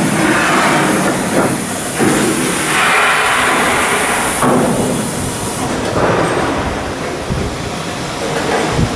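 Loud, steady shipyard work noise: machinery running and hissing, its character changing abruptly every couple of seconds.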